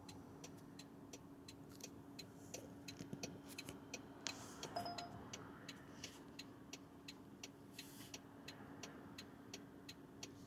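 Car turn-signal indicator ticking steadily in the cabin, about three clicks every two seconds, over a faint steady hum. A short electronic beep sounds about four and a half seconds in.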